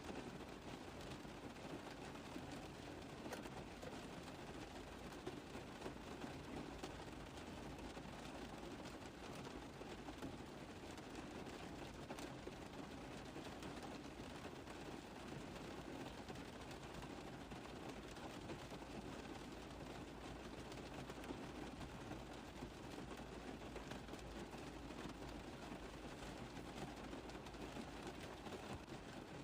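Rain tapping steadily on a car roof: a dense, even run of small drop impacts, faint and unchanging.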